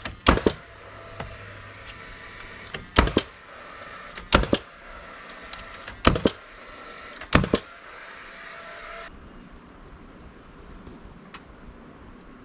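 Five loud, sharp knocks, most of them a quick double strike, spaced one to three seconds apart over a steady low hum. The hum cuts off abruptly about nine seconds in.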